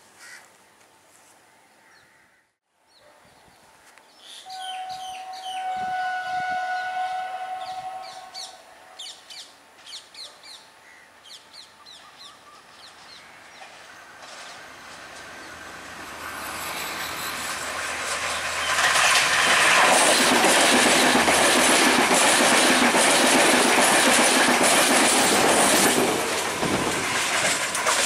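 Sri Lankan diesel multiple unit trains: a horn sounds one long held chord, then wheels clack over the rail joints, then a train passes close at speed with a loud, steady rush of wheel and engine noise that swells up and dies away near the end.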